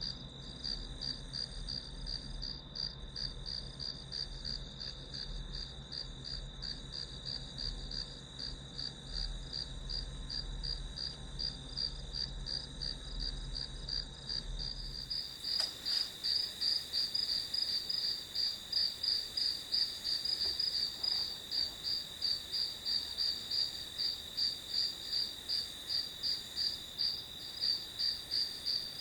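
Crickets chirping steadily in a high, pulsing trill, over a low hum for the first half. About halfway through the hum stops and the chirping becomes louder and more distinct, at roughly two chirps a second.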